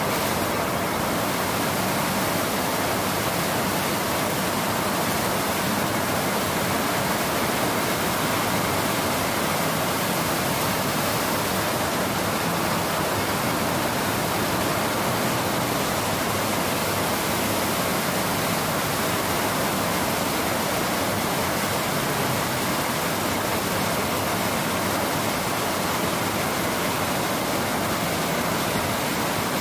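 Steady rainfall, an even, unbroken hiss with no separate drops or pauses.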